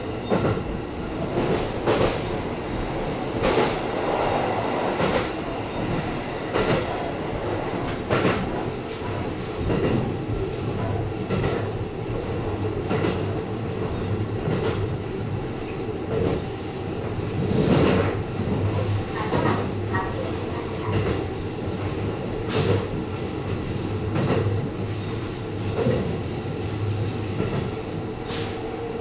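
JR East E257 series electric limited-express train running, heard from inside at the front. The steady rumble of wheels on rail is broken by a sharp clickety-clack over the rail joints every second or few, and a low hum comes in through the middle stretch.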